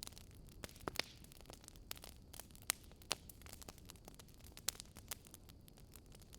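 Wood fire crackling: irregular sharp pops and snaps, a few louder than the rest, over a soft low rumble.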